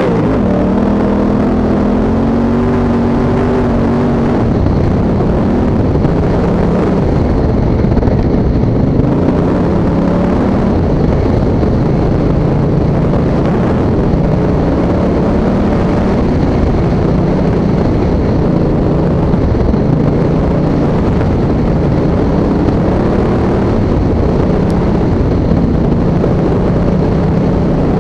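Honda Africa Twin's parallel-twin engine riding through sand. Its revs drop about half a second in, then rise and fall at low revs for the rest of the run.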